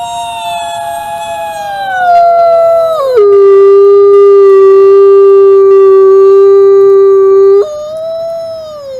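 Wolf howling: one long howl that slides slowly down in pitch, drops suddenly about three seconds in to a lower steady note held for several seconds, then jumps back up near the end and falls away.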